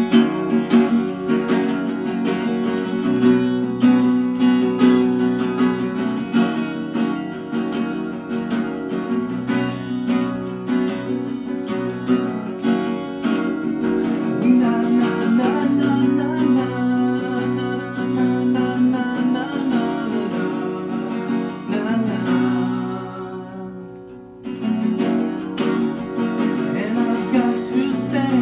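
Solo acoustic guitar strumming chords in a steady rhythm, easing off briefly a little over twenty seconds in before picking up again.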